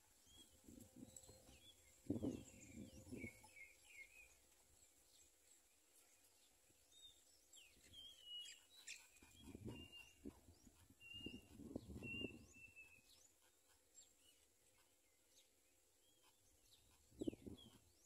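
Faint bird chirps: short high calls scattered through, busiest in the middle, with a few low muffled bumps, the loudest about two seconds in.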